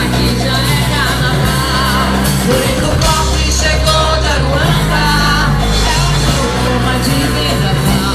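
Live axé music: a band playing over a steady bass beat while a woman sings the melody.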